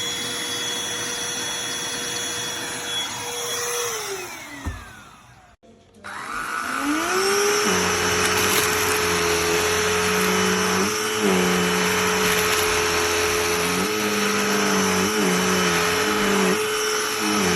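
Cordless handheld vacuum motor running, then switched off about four seconds in and winding down to a stop. About a second later it is switched back on, spins up with a rising whine, and runs steadily, its pitch dipping briefly several times.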